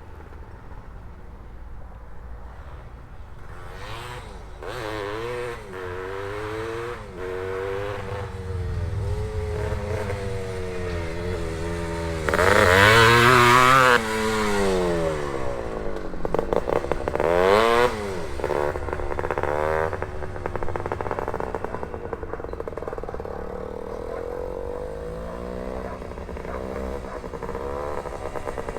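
A 1973 Penton/KTM Berkshire 100's single-cylinder two-stroke engine, with a Bassani pipe, revving up and down as the bike is ridden, its pitch rising and falling again and again. It starts quieter, and the hardest revs come a little under halfway through, with another sharp rise and fall soon after.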